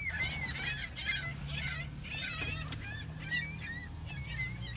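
A flock of gulls calling: many short, overlapping cries, thinning out near the end, over a steady low hum.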